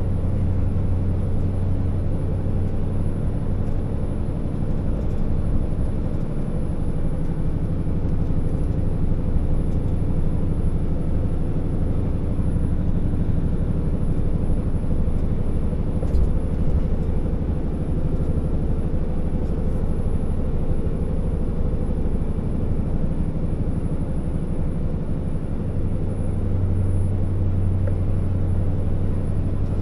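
Scania R650 timber truck's V8 diesel engine running steadily as the truck drives, a low even drone; the deepest part of the drone eases off after a couple of seconds and grows stronger again near the end.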